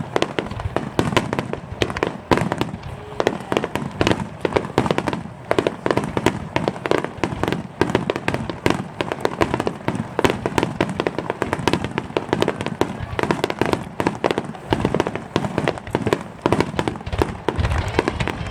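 Aerial fireworks in a rapid barrage: dense, overlapping bangs of shells bursting, many every second, with no pause.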